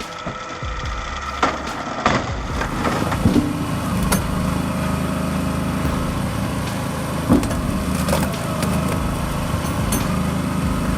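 A small engine running steadily on a firewood-processing machine, with several sharp knocks and cracks of wood. The engine sound sets in firmly about two and a half seconds in.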